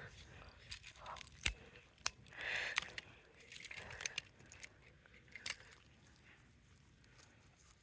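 Faint, irregular clicks and short scratchy crackles of a hard-plastic air-conditioner remote being handled and pried apart, busiest in the first few seconds and thinning out toward the end.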